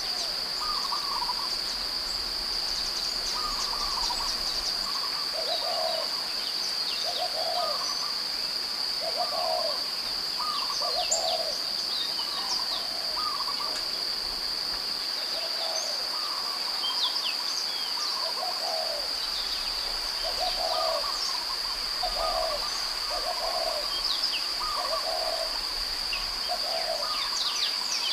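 Outdoor nature soundscape: short, low bird calls repeat about once a second over a steady high-pitched insect drone, with scattered high chirps from small birds.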